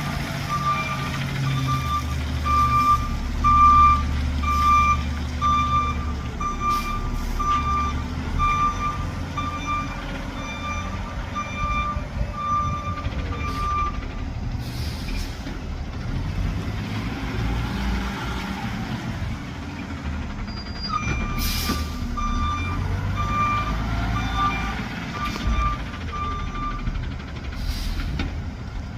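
Garbage truck's backup alarm beeping steadily as it reverses, about one and a half beeps a second, over the low running of its engine. The beeping stops for several seconds midway and then starts again, and short hisses come about 21 and 28 seconds in.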